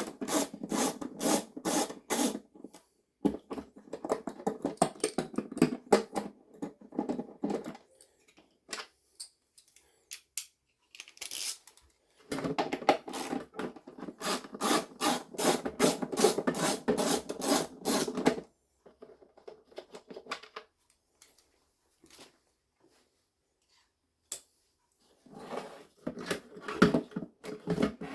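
Ratchet spanner clicking rapidly as 10 mm bolts are undone from a vacuum cleaner's plastic casing, in four separate spells of ratcheting with pauses between them.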